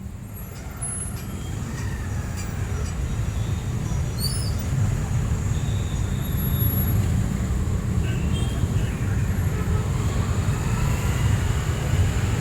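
City street ambience: a steady low rumble of road traffic that grows louder over the first few seconds, with faint scattered higher tones above it.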